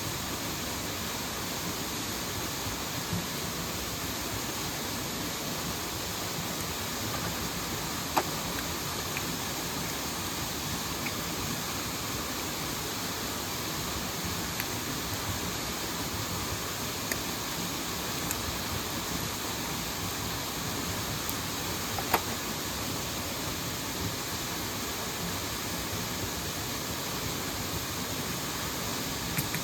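Steady rushing of a mountain stream and waterfall. A few sharp clicks stand out over it, the loudest about 8 and 22 seconds in.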